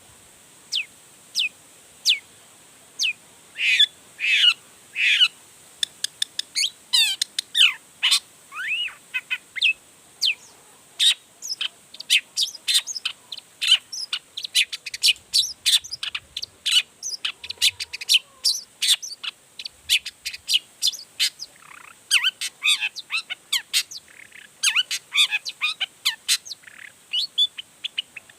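Long-tailed shrike (cendet) in full song: a fast, varied run of sharp chirps and quick down-slurred whistles, tightly packed, with brief gaps.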